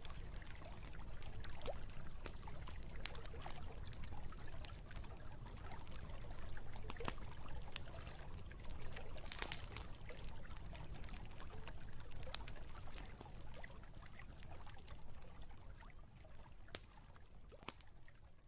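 Shallow river water trickling and splashing steadily, with many small sharp drips and splashes.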